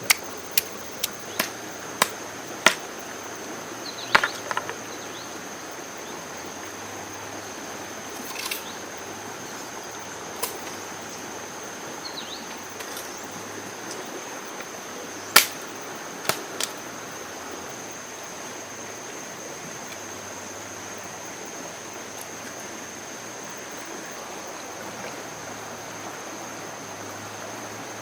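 Irregular sharp knocks, several close together in the first few seconds and a few more scattered later, over a steady hiss and a constant thin high-pitched whine.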